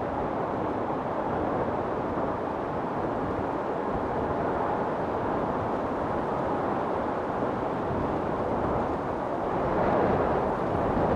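Strong wind storm blowing steadily as a low, dense rush, swelling into a louder gust near the end.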